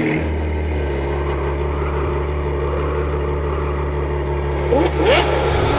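Cartoon vehicle engine sound effect running at a steady low idle hum, with a few short squeaky pitch glides about five seconds in.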